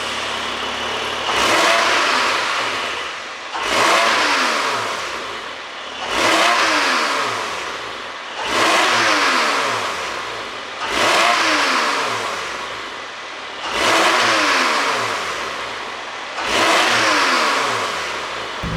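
Porsche 718 Boxster GTS 4.0-litre flat-six with a pop-and-crackle ECU tune, blipped seven times about every two and a half seconds. Each rev climbs quickly and then falls back to idle.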